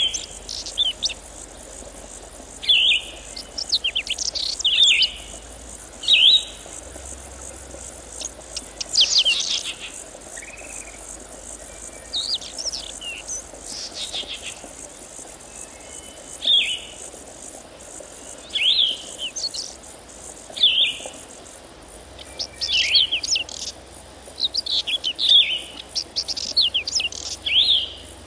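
Birds singing: short, bright chirping phrases repeating every second or two, over a steady high-pitched hiss.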